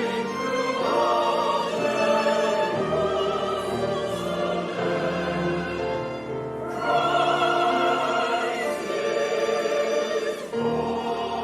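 Choir singing a sustained, slow piece with violin accompaniment, with a brief breath between phrases about two-thirds of the way through.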